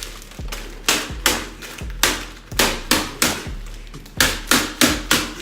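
A bag of Hot Cheetos being pounded by hand on a countertop to crush the chips: a run of repeated thumps, about two or three a second, each with a crunch and crinkle of the bag, coming faster near the end.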